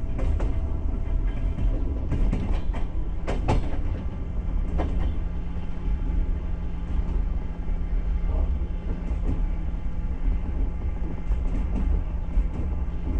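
Passenger train running at speed, heard from inside a carriage by the window: a steady low rumble of the wheels on the rails, with several sharp clicks and knocks, most of them between about two and five seconds in.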